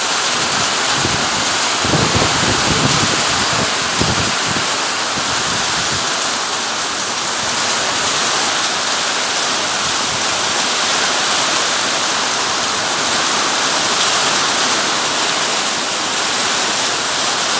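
Heavy rain pouring down in a steady, loud hiss. A few low thumps come in the first few seconds.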